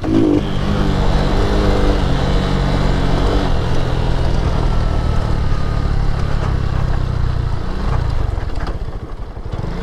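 Lifan KP Mini 150's single-cylinder engine running under throttle while ridden, its pitch shifting with the throttle and easing off briefly near the end.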